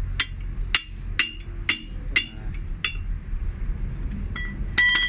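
Hammer blows on the steel rim of a bus wheel during a tyre and tube change, about two sharp metallic strikes a second. Near the end a few strikes ring out with a clear tone. A steady low hum runs underneath.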